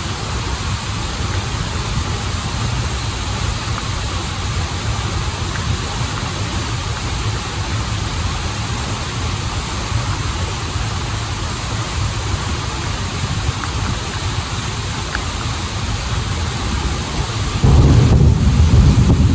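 Waterfall and stream water rushing steadily, a dense, even noise with a heavy low rumble. Near the end it suddenly becomes louder and deeper.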